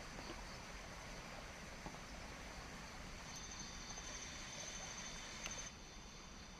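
Faint forest ambience with insects chirring at a steady high pitch, growing stronger about halfway in, and a few faint clicks.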